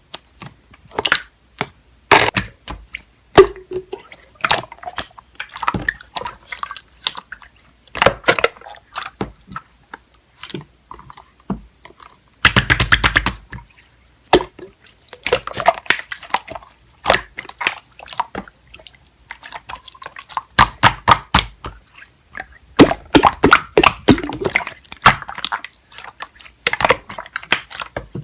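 Hot-pink pearl slime being squished and poked by hand: irregular wet pops, clicks and squelches, with a dense run of crackling pops about halfway through.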